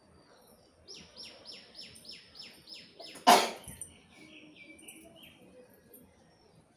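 A bird calling a quick series of about seven high notes, each falling in pitch, then a person's sudden loud sneeze a little over three seconds in. A few shorter bird notes follow.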